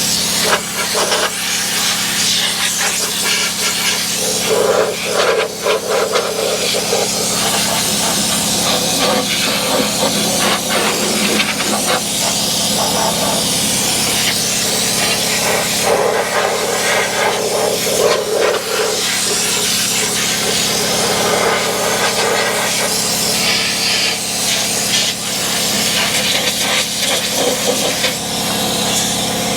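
Pneumatic undercoating gun spraying oil onto a truck's underside: a continuous loud hiss that surges and dips briefly as the trigger and aim shift, over a steady low hum.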